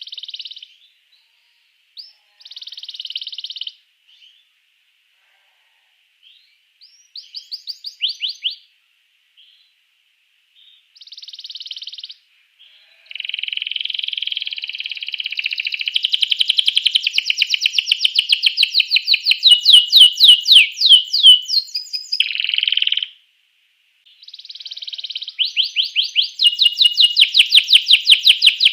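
Domestic canary singing. At first it gives short separate phrases with pauses between them, then about halfway through it breaks into a long, loud, nearly unbroken song of fast trills and rolls.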